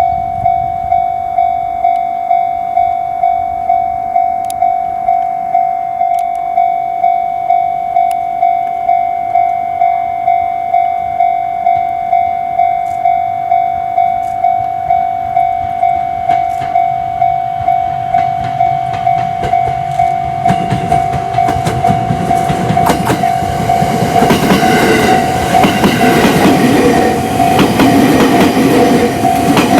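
Railway level-crossing warning bell ringing in steady pulses, about one and a half a second. About 18 seconds in, an electric commuter train approaches and grows loud as it passes, with wheel clatter on the rails near the end.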